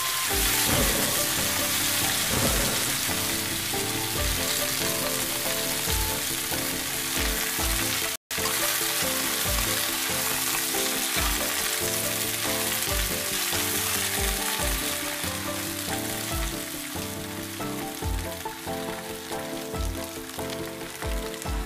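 Food frying in a hot wok, a steady sizzling hiss, over background music with a slow low beat. The sound cuts out for a split second about eight seconds in.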